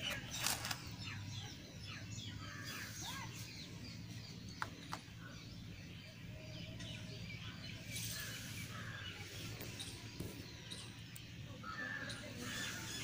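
Birds chirping in the background over a low steady hum, with a few short knocks, the loudest about half a second in.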